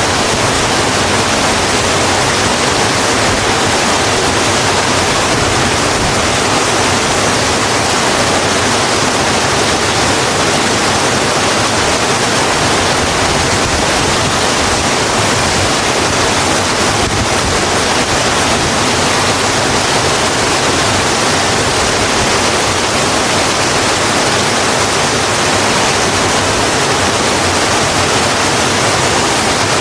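Steady, heavy rain falling, an even hiss with no pauses or separate drops standing out.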